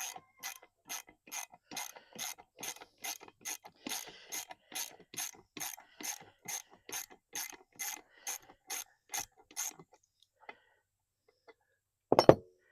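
Socket ratchet wrench clicking in a steady rhythm, a little over two clicks a second, as a bolt is backed out of a 15 hp Chrysler outboard motor. The clicking stops after about ten seconds, and one loud knock follows near the end.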